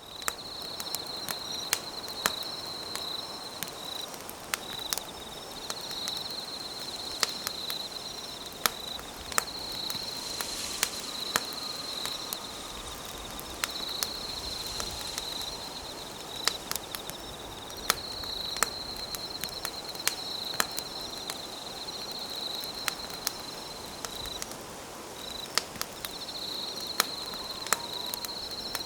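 Wood campfire crackling with frequent sharp, irregular pops over a low hiss, under a steady high trill of insects chirping in the night forest, broken by short pauses.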